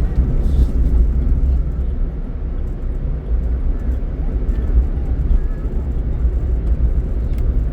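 Steady low rumble of engine and tyre noise inside a car's cabin while driving on a highway.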